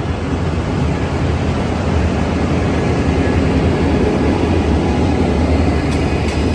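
Departing Amtrak Capitol Corridor train powered by a Siemens Charger diesel locomotive pushing from the rear: a loud, steady diesel rumble with train running noise.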